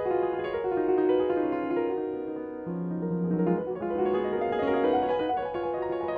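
Piano playing, with notes following one after another in a continuous melody.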